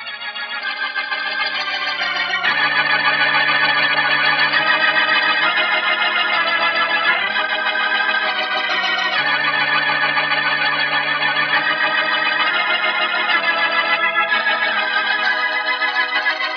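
Organ music: sustained chords changing every couple of seconds, swelling up over the first few seconds and then holding steady.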